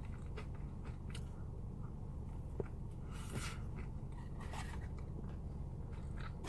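Faint chewing of a mouthful of burger, with soft mouth sounds and a few short clicks, over a steady low hum.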